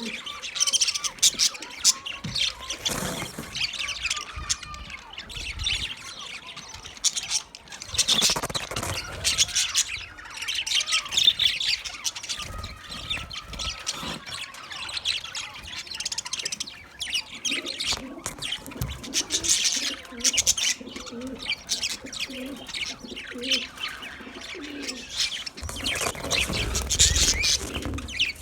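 Budgerigars chirping and warbling in a continuous, busy chatter. A row of low, evenly repeated notes joins in around the middle.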